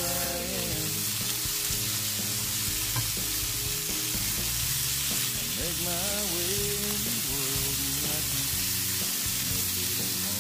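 Chickpeas sizzling as they roast in oil in a frying pan, stirred now and then with a silicone spatula. Background music plays underneath.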